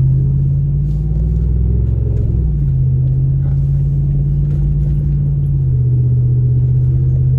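Hemi V8 of a Ram 2500 heavy-duty pickup with its muffler deleted, droning steadily while driving, heard inside the cab with the windows up. The pitch of the drone steps down about two and a half seconds in, and again a little near six seconds.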